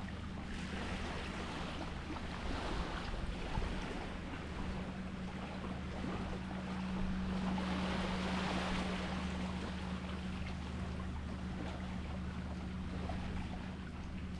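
Sea waves washing and surging, swelling louder about halfway through, over a steady low hum.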